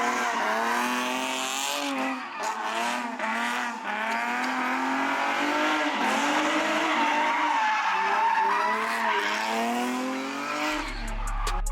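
A car doing a burnout or donuts: tires squealing and engine revving up and down in repeated waves. Bass-heavy music cuts in near the end.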